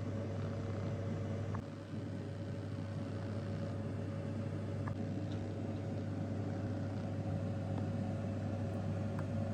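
Steady low mechanical hum with an even hiss and a faint steady tone, changing slightly about one and a half seconds in, with a few faint ticks.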